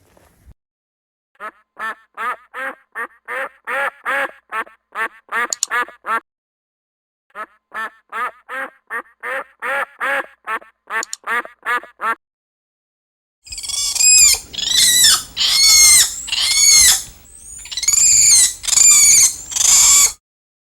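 Duck quacking in two quick runs of short calls, about three a second. These are followed by about six louder, longer calls that bend in pitch.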